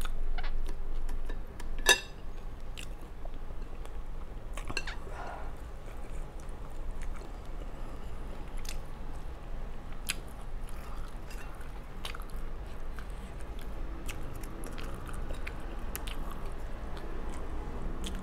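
Close-miked chewing and wet mouth sounds of eating, louder in the first couple of seconds, with scattered light clicks and one sharp click about two seconds in.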